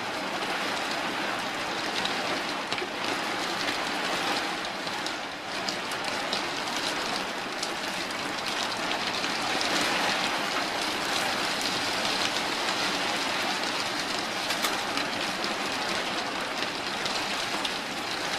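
Heavy rain falling steadily on the roof of a converted bus, heard from inside as an even, dense hiss of countless small drops.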